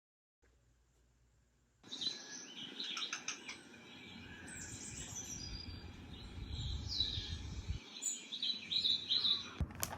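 Small birds chirping and tweeting in quick, high repeated calls. They start suddenly about two seconds in, and a few clicks come near the end.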